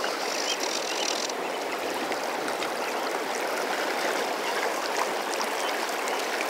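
South Fork Snake River current running steadily: an even rush of moving water, with a brief brighter hiss about a second in.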